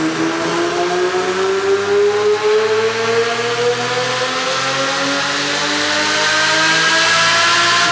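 Twin-turbocharged V12 of a Lamborghini Murciélago LP640 on a chassis dyno, its engine note rising steadily in pitch as the revs climb under load.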